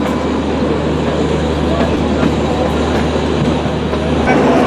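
Passenger train rolling slowly along a station platform, heard from inside a coach at the window: a steady low rumble and running noise.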